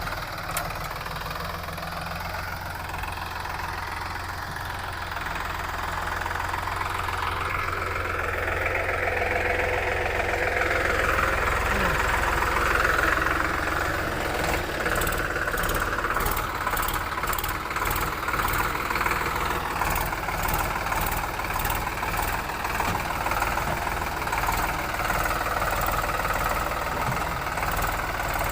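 Tractor engine running steadily, growing louder over the first dozen seconds. From about halfway a regular ticking of about two a second joins in.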